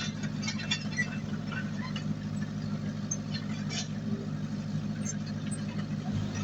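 Heavy diesel engine of earthmoving machinery running steadily, with scattered light clicks and clanks over it.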